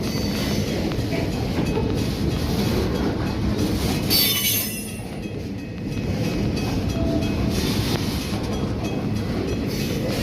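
MRS freight train of loaded wagons rolling past with a steady rumble and repeated clicks of wheels over the rail joints. About four seconds in comes a brief high-pitched burst, and then the rumble dips for a moment before it resumes.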